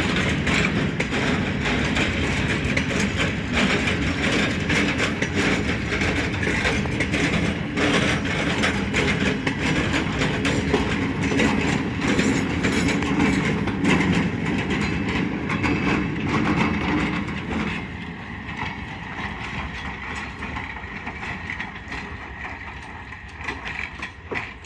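Freight train wagons rolling past, wheels clattering over rail joints with a dense run of clicks. The noise drops noticeably about two-thirds of the way through and carries on more quietly.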